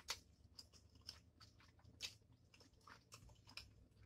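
Faint chewing of a mouthful of cheesy spicy ramen noodles: scattered soft wet clicks of the mouth and jaw at an uneven pace.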